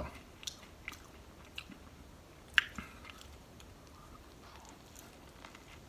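A soft-bread sub sandwich with shredded lettuce and cold cuts being bitten into and chewed, faint and close, with small scattered crunches and mouth clicks and one louder click about two and a half seconds in.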